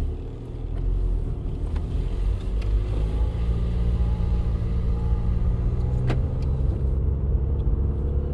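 The 2.0-litre BKD four-cylinder diesel of a 2007 VW Golf GT TDI running at steady revs with a deep, steady humming drone through the car. It is an engine-speed-related vibration hum, worst around 3600–3700 rpm, which the owner suspects comes from a worn dual-mass flywheel.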